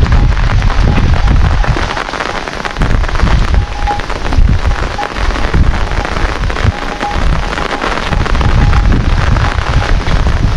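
Heavy rain falling, a dense steady patter of drops with a strong low rumble underneath.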